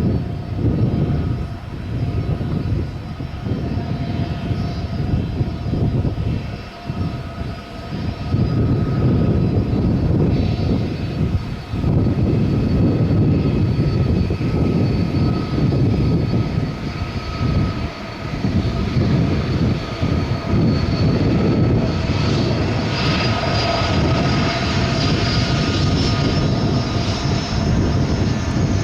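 Airbus A330-300 twin-engine jet airliner taking off at takeoff power: a heavy, steady jet-engine rumble with a high whine over it. The whine grows stronger about three quarters of the way through.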